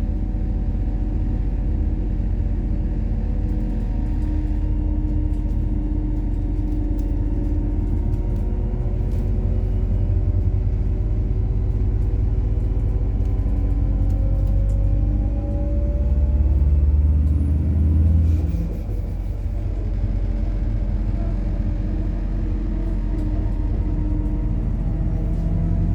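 Methane-fuelled MAZ-103 city bus driving, heard from inside the cabin: the engine runs with its pitch rising and falling as the bus speeds up and slows, over a steady low rumble. The rumble swells to its loudest a little past halfway, then drops away suddenly.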